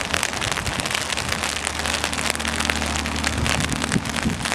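Heavy rain falling, a dense, even patter of drops striking close by, with a steady low hum underneath.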